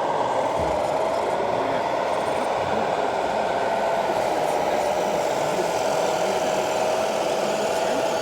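A steady, slightly wavering mechanical whine over a constant background noise, typical of a radio-controlled model truck's drive running.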